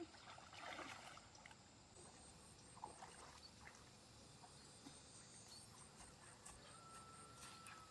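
Near silence: faint stream-side water ambience, with a brief soft splashing noise under a second in and a few light clicks.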